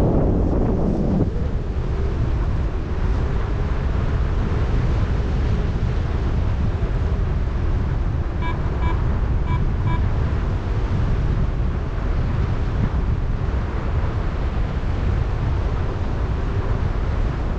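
Wind rushing over the microphone of a paraglider pilot in flight, steady and loud throughout. About eight seconds in, a quick run of short high beeps sounds, like a flight variometer signalling lift.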